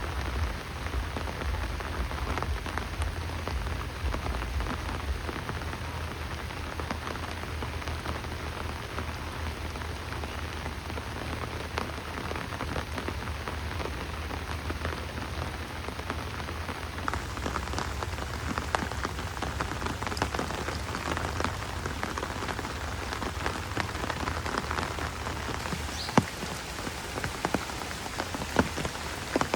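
Steady rain falling and pattering on surfaces, with a low rumble underneath that is stronger in the first few seconds, and a few sharp taps of drops near the end.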